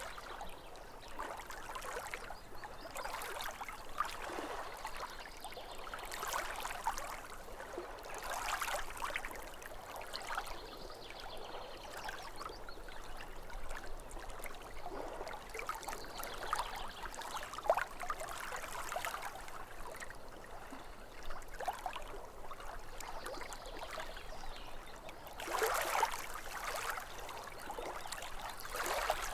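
Small waves lapping against a lake shore: an irregular run of soft splashes and washes, with a larger surge of water about three quarters of the way through.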